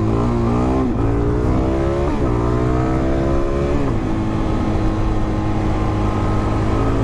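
Suzuki DR-Z400's single-cylinder four-stroke engine accelerating hard through the gears. The engine note climbs and drops at three upshifts, about one, two and four seconds in, each pull longer than the last, then holds a steady cruising note.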